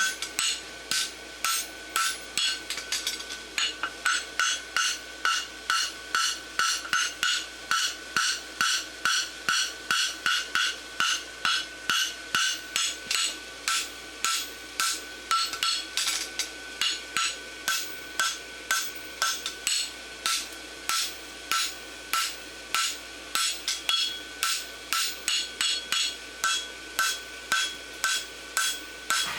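Farrier's hand hammer striking a hot steel bar on the anvil in a steady rhythm, about three blows a second, with the anvil ringing between blows. He is packing the bar down and shaping the corner of a barshoe.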